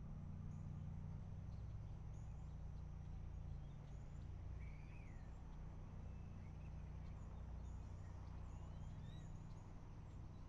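Faint outdoor ambience: a steady low rumble with a few short bird chirps, a couple in the middle and several more later on.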